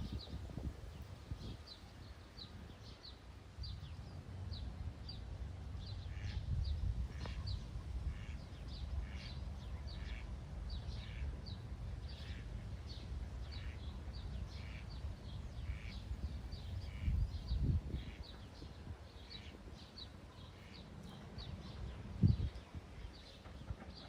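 Small birds chirping: many short, high, down-slurred notes repeating all through, over a low rumble, with two soft thumps in the second half.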